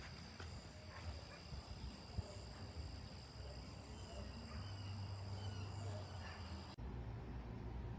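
Faint outdoor ambience with steady high-pitched drones and scattered faint animal calls. It cuts off abruptly near the end, leaving only a low steady hum.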